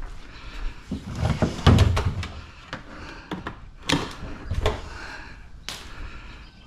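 A series of irregular knocks and clunks from hard objects being handled and set down, the heaviest thuds a little under two seconds in.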